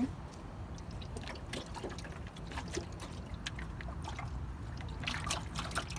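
Rainwater trapped inside a car door sloshing and splashing in irregular little splashes, a bit busier near the end.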